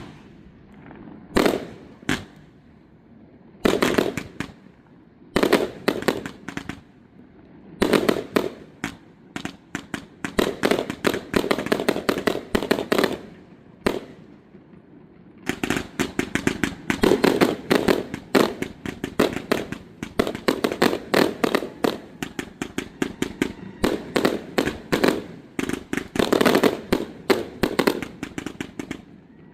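Fireworks display: a few separate bangs at first, then dense, rapid volleys of crackling shell bursts, with a short lull about halfway through before the bursts run on almost without a break.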